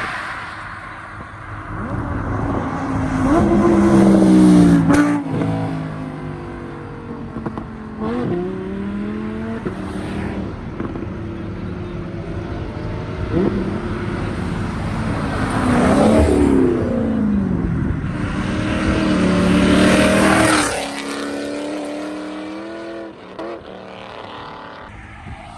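Several cars driving past one after another, their engines revving hard as they accelerate, each rising then falling in pitch. The loudest pass-bys come around 4 seconds in, about 16 seconds in and about 20 seconds in.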